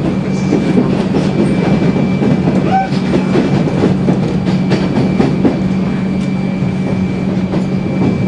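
Passenger train carriage in motion, heard from inside: a steady low rumble and hum with a faint high whine, and scattered clicks from the wheels on the track.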